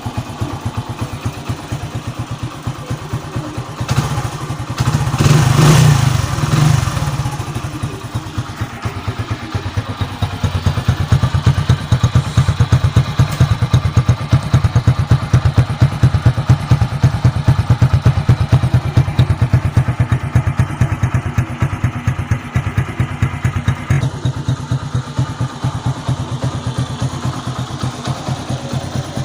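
Hero Splendor Plus's small single-cylinder four-stroke engine idling with a rapid, even exhaust pulse, freshly filled with new engine oil. It is revved briefly a few seconds in, then settles back to a steady idle.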